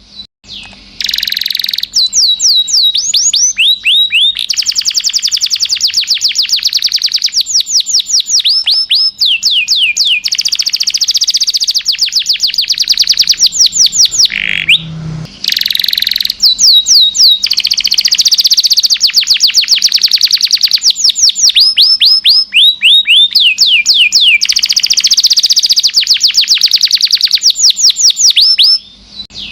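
Domestic canary singing its long song: fast trills of rapidly repeated down-sweeping whistled notes, delivered in runs of several seconds with brief pauses between them.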